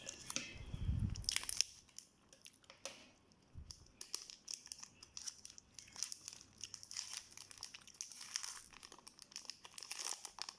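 Plastic chocolate wrapper being torn open and crinkled by hand: a run of irregular crackles and rustles, with a dull handling bump about a second in.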